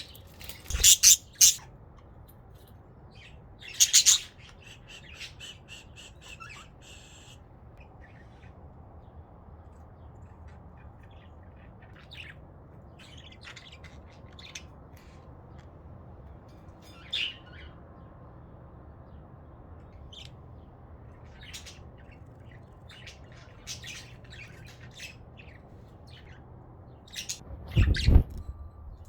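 Pet budgerigars squawking and chirping: a few loud squawks in the first seconds, a fast rattling chatter, then scattered short chirps. A thump with more squawks near the end.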